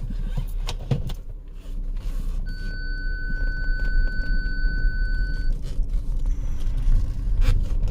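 Volkswagen Passat 3.6 V6 engine idling, a steady low rumble heard from inside the cabin. A steady electronic beep sounds for about three seconds in the middle, with a few light clicks.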